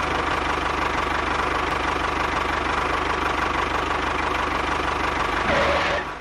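An engine running steadily with a fast, even knock, cutting off abruptly at the very end.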